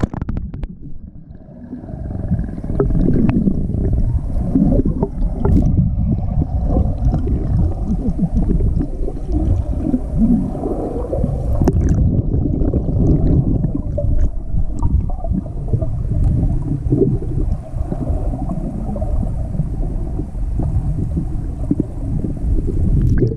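Muffled gurgling and sloshing of water heard through a camera microphone held underwater. The sound is dull and low, with everything above it cut off.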